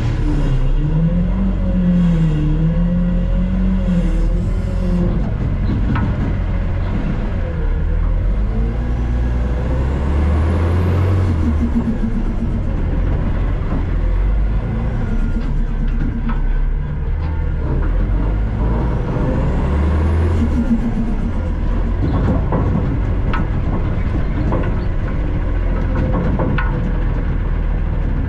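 Front-load garbage truck's diesel engine running under way, its pitch rising and falling, with two louder surges. A high rising whistle comes twice, and short knocks and rattles come now and then.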